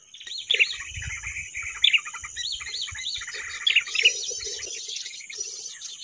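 Small birds chirping busily: many short, quick chirps that rise and fall, overlapping one after another, with a few low knocks from sticks being handled about a second in.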